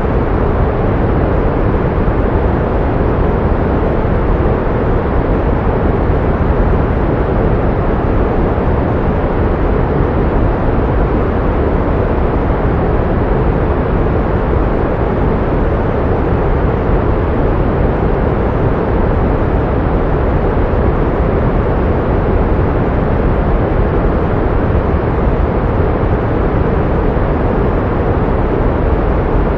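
Pink noise: a steady, even hiss with its weight in the low and middle range, unchanging throughout.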